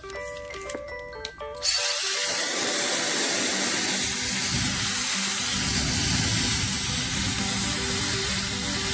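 Hair dryer switched on about two seconds in, then running steadily with a loud, even rush of air. Background music plays before it starts.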